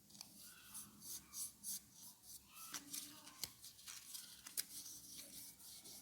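Faint, crisp rustling and scratching handling noises, several a second, with a couple of sharp clicks partway through.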